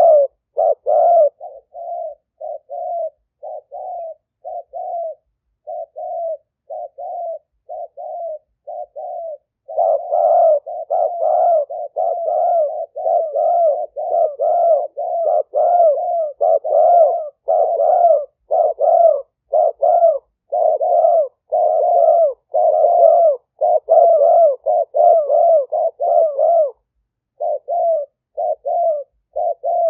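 Spotted dove cooing, the call of a decoy bird used to lure wild spotted doves. Short coos come at about one and a half a second for the first ten seconds, then turn into a louder, denser run of overlapping coos, with a brief break near the end.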